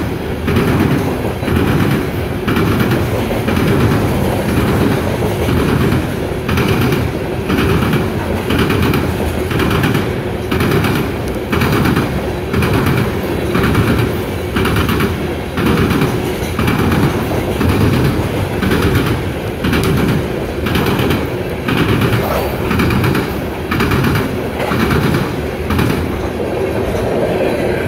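Loaded coal hopper cars of a CSX freight train rolling past close by: a steady rumble of wheels on rail with regular clickety-clack a little more than once a second as the wheel sets cross the track joints.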